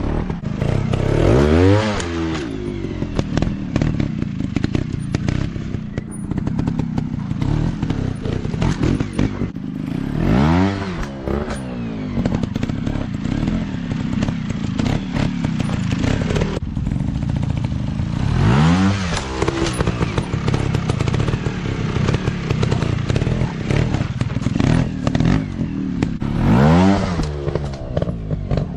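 Dirt-bike engines running, with the pitch rising and falling in four revs spaced about eight seconds apart.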